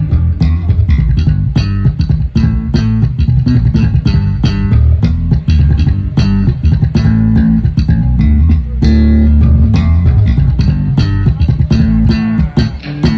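Bass guitar playing a moving bass line together with guitar, with frequent sharp hits throughout.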